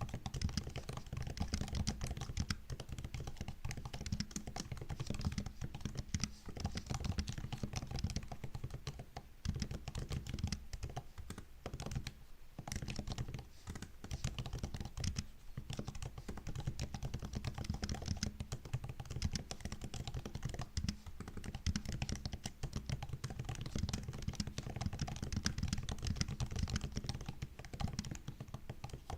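Continuous typing on a MacBook's built-in keyboard: a fast, steady patter of soft key clicks and taps, with a couple of brief pauses near the middle.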